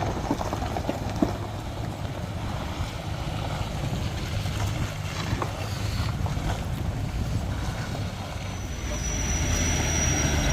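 A heavy truck's engine labours up a steep climb as a steady low rumble that grows louder near the end. A thin high whine joins about eight seconds in, and wind buffets the microphone.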